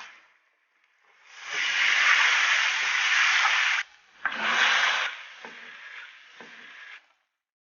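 Food sizzling in hot oil in a wok, a loud steady hiss that cuts off abruptly, comes back briefly, then continues more faintly before stopping.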